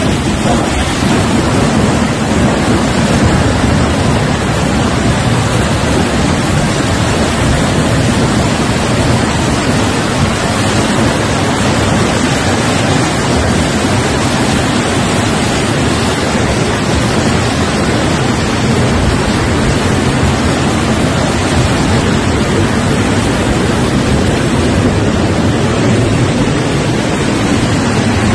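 Torrent of water pouring out of an opened dam, a loud, steady rush.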